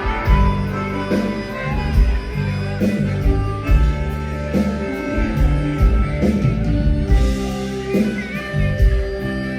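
Live band music played loud in a bar: bass and drums keeping a steady beat under guitar, with a voice singing faintly near the end.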